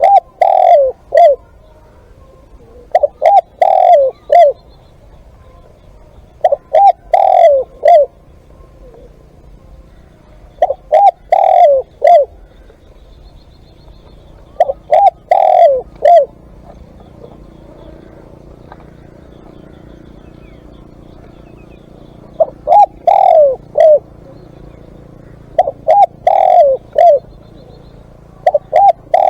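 Spotted dove cooing: short phrases of three or four coos each, repeated every three to four seconds, with a pause of about six seconds midway.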